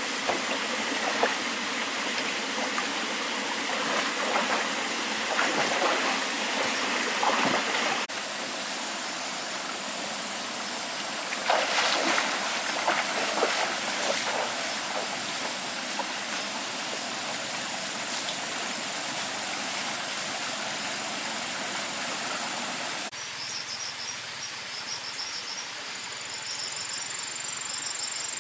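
Flowing water running steadily, with scattered splashing knocks early and in the middle. Crickets chirp with a high steady whine near the end.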